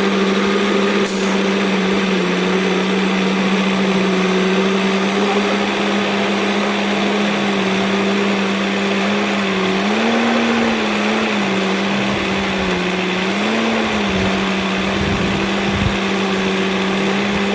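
Engine running steadily with a constant droning hum. Its pitch rises briefly twice, about ten and about thirteen and a half seconds in.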